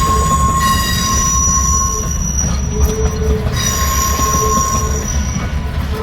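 Alaska Railroad train rolling by with its wheels squealing. The squeal comes in several high tones that swell twice, at the start and again after about three and a half seconds, over a steady low rumble of the moving cars.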